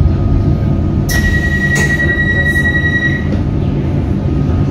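Comeng electric train running, heard from inside the carriage: a steady low rumble. About a second in, a sharp high-pitched wheel squeal starts suddenly and holds on one note for about two seconds, with a few clacks from the wheels.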